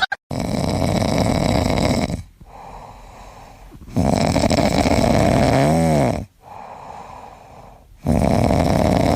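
Loud, rhythmic snoring: three long rasping breaths of about two seconds each, with quieter breaths between them, and a brief whistling squeak that rises and falls in the middle one.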